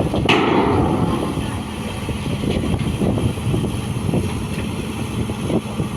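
Heavy machinery rumbling steadily during soil filling, with a sharp metallic clank just after the start and lighter knocks later on.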